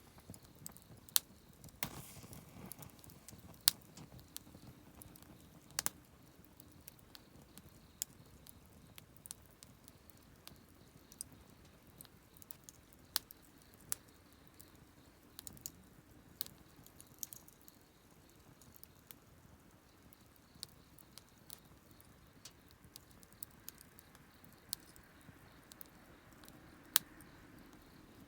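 Wood campfire crackling: irregular sharp snaps and pops over a faint steady hiss, with a few louder pops standing out.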